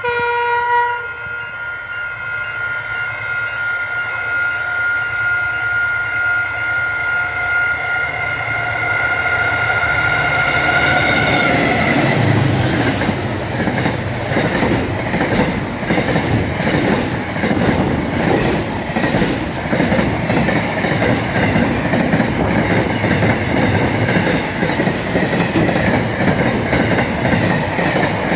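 A train horn sounds one long multi-tone blast lasting about eleven seconds. Then the train passes close by: loud rumbling with the rhythmic clickety-clack of wheels over rail joints.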